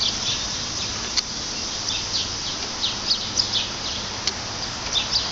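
Small birds chirping: short, high, falling chirps about twice a second over a steady outdoor hiss, with a single sharp click about a second in.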